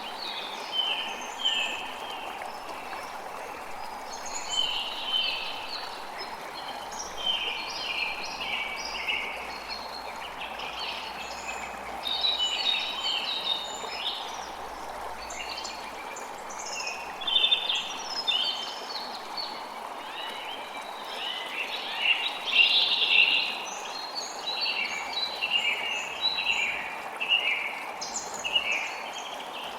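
Many small birds chirping and singing in quick, overlapping short calls over the steady rush of a creek.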